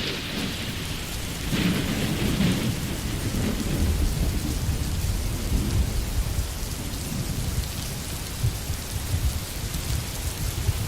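Steady rain falling on a forest, with a low rumble of thunder underneath that swells and fades. The rain briefly brightens about two seconds in.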